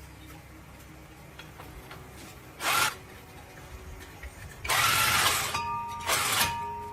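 Three short bursts of a power tool, the second the longest, over a low steady background.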